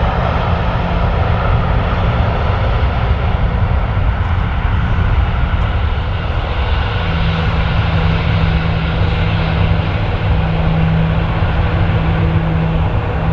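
Airliner engines running loud and steady, with a high engine whine that fades over the first few seconds and a steady low hum setting in about halfway through.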